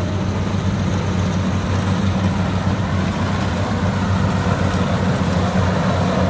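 Kubota combine harvester's diesel engine running steadily with an even low hum, with the working noise of the machine over it.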